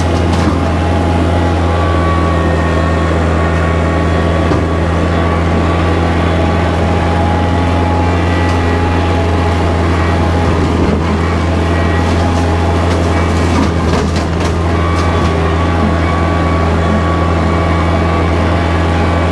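Kubota tractor's diesel engine running steadily while bush hogging with a rotary cutter, a constant low drone. A few brief knocks come about 11 and 14 seconds in.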